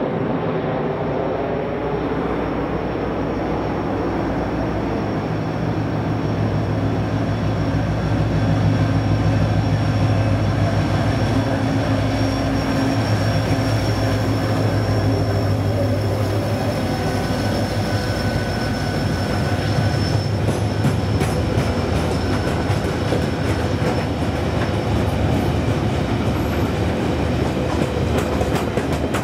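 Irish Rail 071 Class diesel-electric locomotive, with its EMD two-stroke V12 engine, approaching and passing under power. The engine note grows loudest around the middle. A long train of freight wagons then rolls by with steady clickety-clack over the rail joints and a thin, high wheel squeal.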